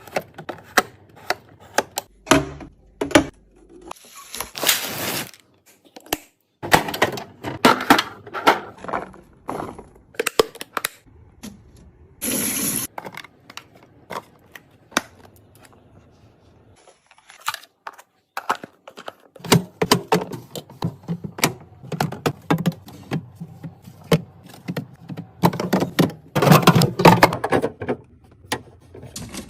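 Plastic containers, lids and food packaging being handled and set into a fridge: a run of sharp clicks and knocks, with several stretches of rustling.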